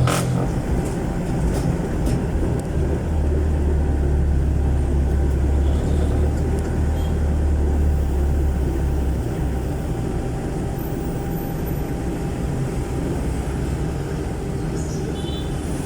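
Jeepney's Isuzu 4BC1 four-cylinder diesel running through an extremely loud aftermarket muffler, heard on board while it drives in traffic. A deep exhaust drone is strong for the first nine seconds or so, then eases off. A sharp knock comes right at the start.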